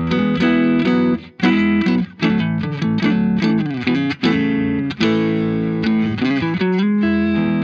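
Stratocaster electric guitar played through the Boss IR-2's clean Fender amp model, strumming rhythm chords with a few short breaks between them.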